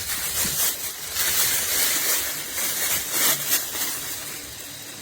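Packaging rustling and crackling as binoculars are unwrapped by hand, an uneven hiss with frequent short crackles that dies down near the end.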